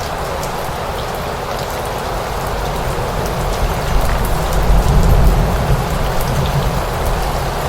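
Steady rain falling, with fine drop patter. About halfway through, a low rumble swells up for a couple of seconds and then fades.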